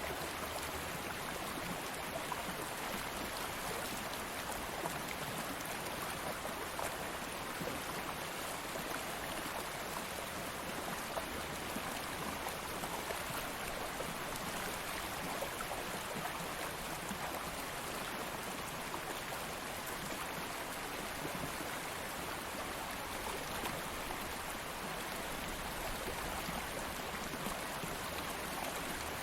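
Stream water flowing and babbling steadily over rocks, an even rushing wash with fine splashing detail.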